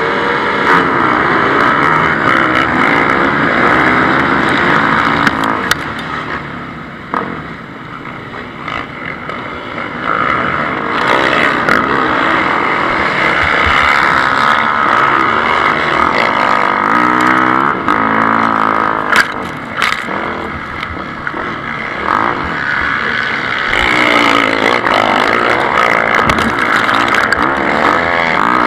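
Several motocross bikes racing, their engines revving up and down as they pass, overlapping one another. There is a quieter stretch about seven to ten seconds in.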